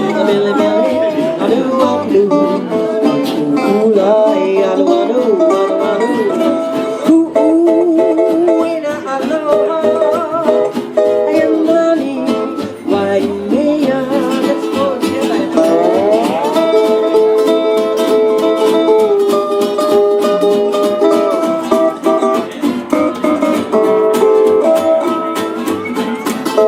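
Small acoustic band playing live: ukulele and guitars with bass, and singing.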